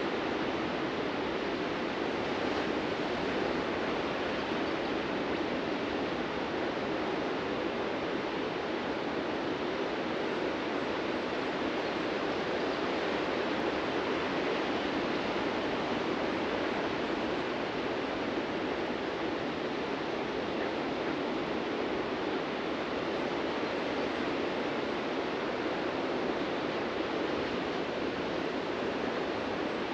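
Ocean surf breaking on a beach, heard as a steady, unbroken wash with no separate wave surges standing out.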